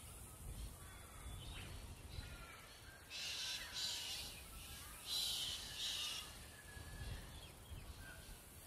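Faint bird ambience: scattered thin chirps over a low rumble, with four harsh, raspy calls in two pairs, about three and five seconds in.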